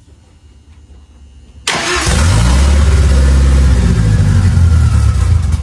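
Ford 2.3-litre turbocharged Lima four-cylinder engine starting up about two seconds in, catching at once and running steadily, then cutting off suddenly near the end.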